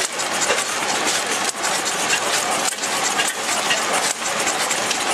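Blackstone oil engine running after start-up: a dense, steady mechanical clatter with a brief dip in level about every second and a quarter.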